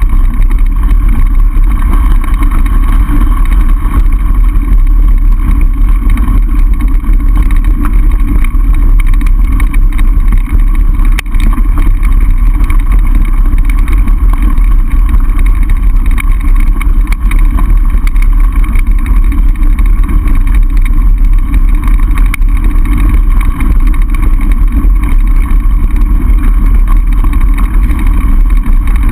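Loud, steady wind noise buffeting the microphone of a camera riding along on a mountain bike.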